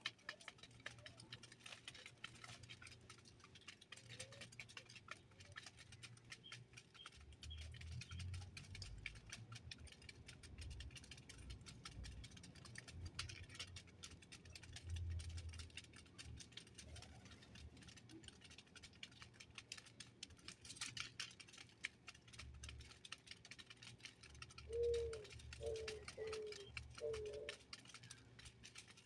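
Small birds at a feeder: faint, scattered pecking and tapping clicks over a low rumble, with three or four short, low, falling calls near the end.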